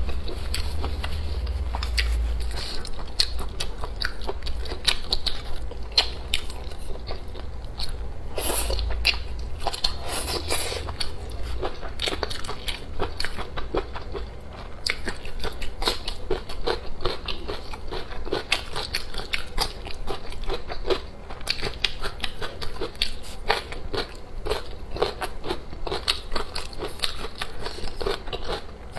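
Close-miked mouth sounds of a person chewing and biting food, with many small irregular clicks and crackles. Low thumps come near the start and again about a third of the way in.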